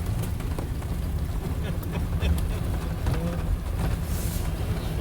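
Off-road vehicle driving along a rough trail, a steady low engine and road rumble with scattered knocks and rattles.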